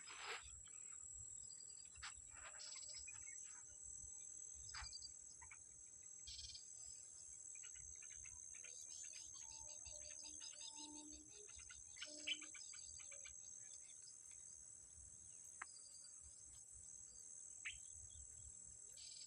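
Faint, steady high-pitched chorus of insects, with scattered brief bird chirps over it.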